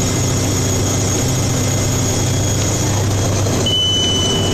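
Snow plow truck's engine and road noise heard from inside the cab, a steady low drone. A thin high-pitched tone comes in near the end.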